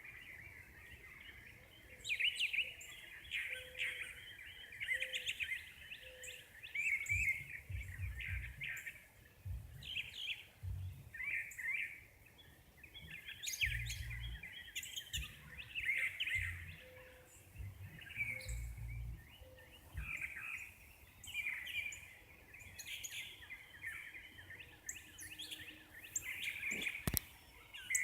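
Several birds calling and singing over one another at sunrise, a dawn chorus of chirps and short phrases that repeat all through, with no pause. Low rumbles come and go underneath.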